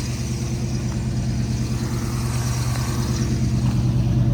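A 350 small-block Chevrolet V8 GM Goodwrench crate engine idling steadily with an even pulse, growing a little louder toward the end. It sounds healthy.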